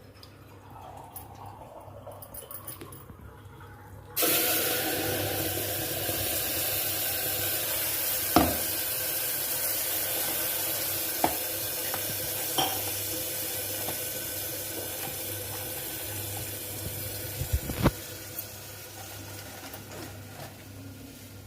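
Electric mixer grinder running, grinding tomatoes for chutney: it starts suddenly about four seconds in with a steady whirring hiss, with a few knocks partway through, and dies away near the end.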